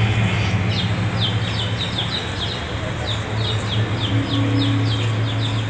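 Small birds chirping: many short, high, downward-sliding peeps, several a second, starting about half a second in, over a steady low hum.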